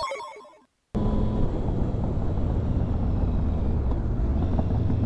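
A ringing phone-like chime dies away, then about a second in the steady sound of a Triumph Sprint ST 1050's three-cylinder engine and wind at riding speed cuts in abruptly and holds.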